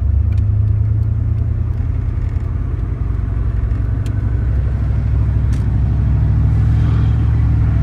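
Detroit 6.5-liter turbo diesel V8 of a 1993 Chevy 1500 running steadily at cruising speed, heard from inside the cab as a loud, even low drone.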